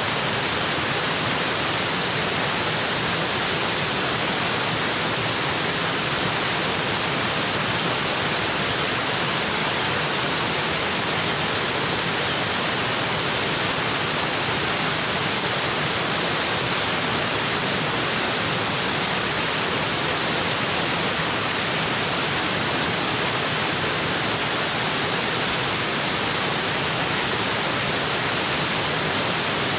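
Waterfall in a tropical forest: water pouring and splashing over rocks in a steady, unchanging hiss.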